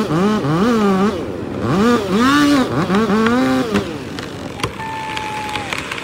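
A vehicle engine revved hard several times, its pitch rising and falling in quick swoops, then dropping back to a lower, quieter running sound about four seconds in.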